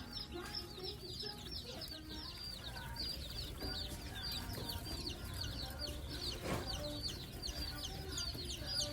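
A group of baby birds chirping without pause: a dense run of short, high, downward peeps, several a second, overlapping one another. A single soft knock about six and a half seconds in.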